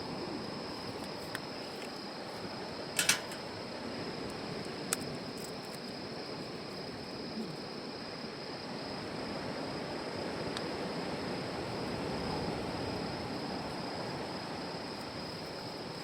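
Wood campfire burning with a steady hiss and a few sharp crackling pops, the loudest about three seconds in. A steady high-pitched tone sits behind it.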